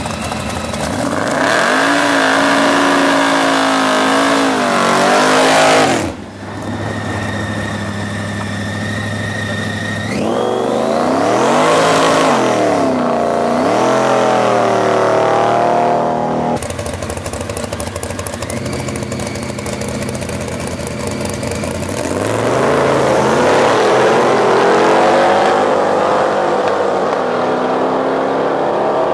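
Muscle car engines revving hard and accelerating in three loud runs, their pitch climbing and dropping, with quieter running between the runs.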